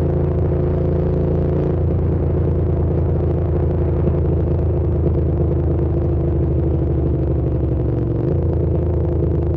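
Hyosung GT650's V-twin engine running at steady revs while the motorcycle cruises, its note holding an even pitch throughout.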